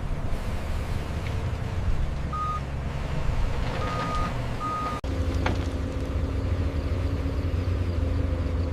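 Heavy construction machinery engine running steadily, with a reversing alarm sounding three short high beeps in the first half. The sound cuts out for an instant about halfway, then the diesel rumble carries on.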